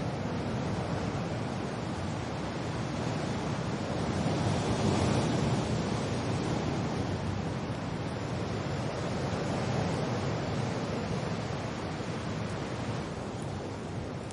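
Steady wind and rain: a continuous rushing noise that swells about four to five seconds in and turns a little duller near the end.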